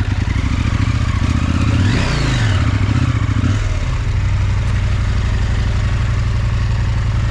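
Big adventure motorcycle engine running, revving up to a peak about two seconds in and dropping back, then running on steadily.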